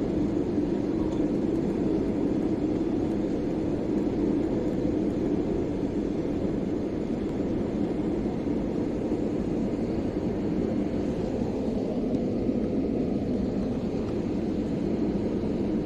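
Steady airliner cabin noise during the descent to land: an even, low rumble of engines and rushing airflow heard from inside the passenger cabin, with no distinct events.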